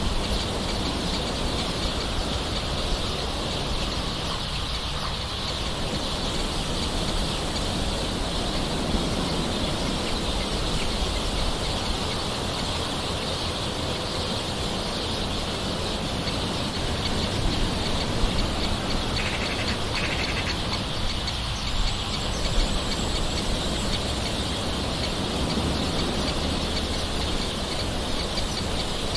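Steady soft rain falling, with birds calling in the background.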